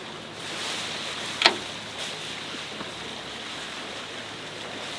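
Steady wash of sea and wind noise aboard a sailing yacht, with one sharp clack about a second and a half in.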